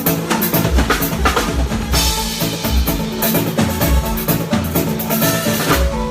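Live band playing, with the drum kit to the fore: kick drum and snare strokes in a steady beat, a cymbal wash from about two seconds in, and sustained bass notes underneath.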